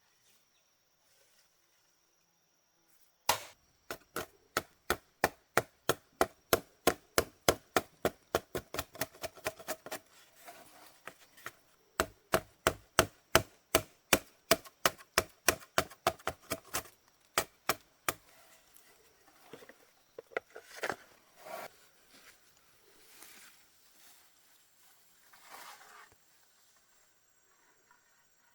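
A blade chopping rapidly on a wooden board, about four even strokes a second, in two long runs with a short pause between them. A few softer knocks follow.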